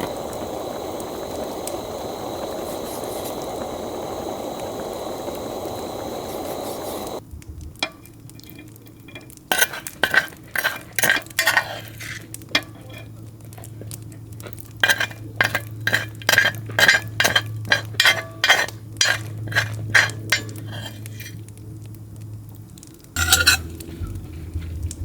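Camp cooking: a steady sizzling hiss for about seven seconds, then it cuts off and a run of quick clinks and taps of metal utensils against dishes and pans follows, with one more clatter near the end.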